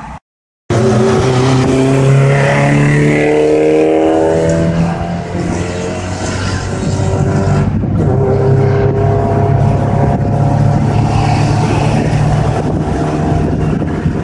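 Car engine heard from inside the cabin, pulling hard with its pitch rising for several seconds. The pitch drops about five seconds in and there is a short break near eight seconds before it pulls on. The sound starts abruptly just under a second in, after a brief gap of silence.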